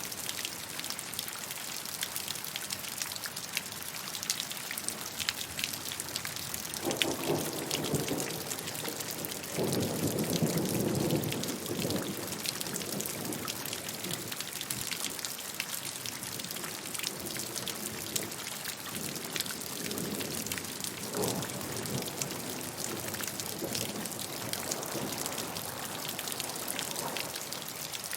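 Steady rainfall, a dense even hiss with many individual drops ticking on a surface. A low rumble swells and fades from about seven to twelve seconds in, with a weaker one near twenty-one seconds.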